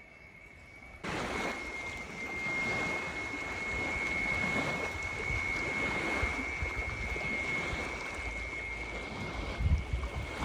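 Water and wind noise: small waves washing at the edge of a volcanic crater lagoon with wind on the microphone. The noise starts abruptly about a second in, under a thin, steady high whine.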